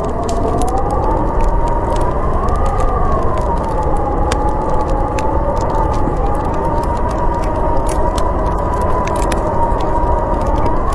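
Howling blizzard wind, a whistling tone that slowly rises and falls over a low rumble, with scattered crackles and pops from a wood fire.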